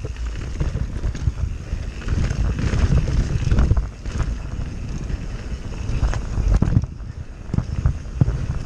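Enduro mountain bike (CTM Scroll Pro X1) riding down a wet trail: wind buffeting the microphone over the rumble of tyres on rough ground, with scattered knocks and rattles from the bike over bumps.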